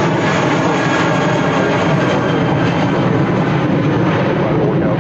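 Airbus A319's twin IAE V2500 jet engines running at takeoff thrust: a loud, steady roar with faint steady whining tones on top.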